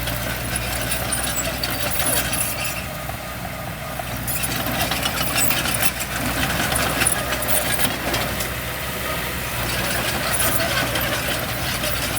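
Diesel engine of heavy earthmoving machinery, a dump truck or bulldozer, running steadily.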